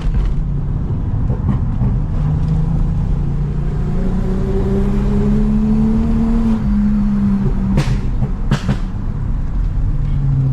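Toyota Mark X V6 with a modified exhaust running while driving, its note climbing in pitch under acceleration and then dropping back, as at a gear change. Two sharp clicks come just under a second apart past the middle.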